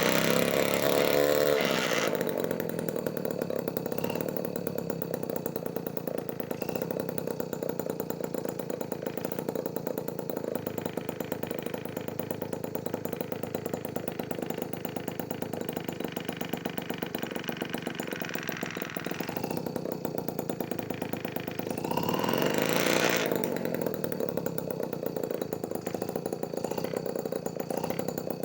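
Homemade mini two-stroke engine built from a refrigerator compressor, idling with a fast, buzzy firing beat. It is briefly revved up and back down twice, right at the start and about 22 seconds in.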